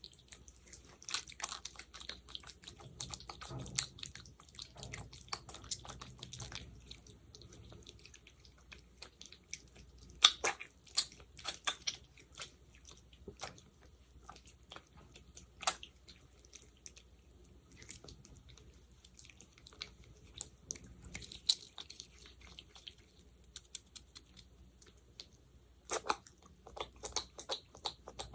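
Sticky gel worked close to the microphone for ASMR: irregular wet, sticky clicks and crackles, denser near the end.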